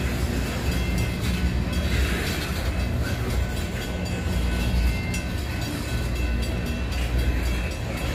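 Freight train of tank cars rolling past: a steady low rumble of steel wheels on the rails.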